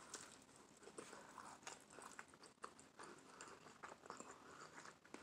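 Faint close-miked eating: a bite into toasted bread topped with avocado and fried egg, then chewing, with many small mouth clicks throughout.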